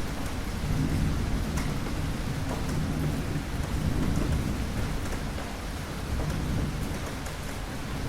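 Steady rain with scattered drop ticks and a low rolling rumble of distant thunder that swells about a second in and carries on.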